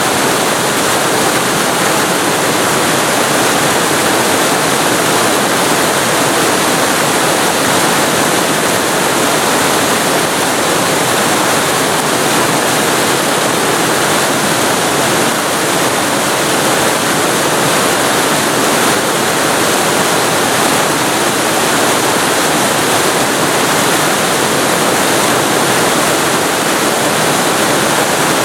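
Waterfall recorded extremely close to the falling water: a loud, steady rush with no breaks.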